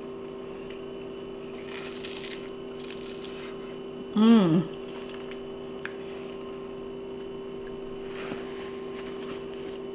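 A woman biting and chewing corn on the cob, with faint chewing sounds and a short "mmm" of enjoyment about four seconds in. A steady electrical hum runs underneath.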